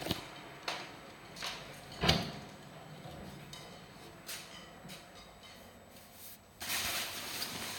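A string of sharp knocks and clicks, the loudest about two seconds in, then about a second of rushing noise near the end.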